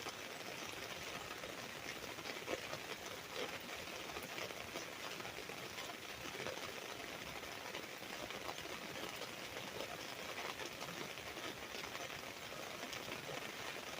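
Rain falling on an umbrella: a steady, dense patter of many small drop hits.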